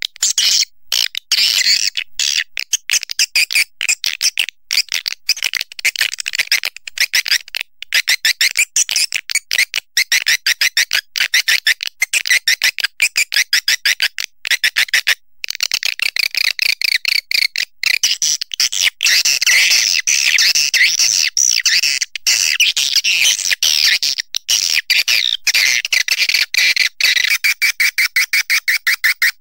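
Swiftlet calls played as a lure recording: a dense, rapid chattering of high, clipped chirps, many per second. Near the end it settles into a steadier, lower-pitched buzzing chatter.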